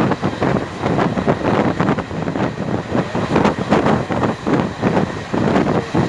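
Passenger train running at speed, heard from on board: a steady loud rumble of wheels on the track with rapid, irregular clattering.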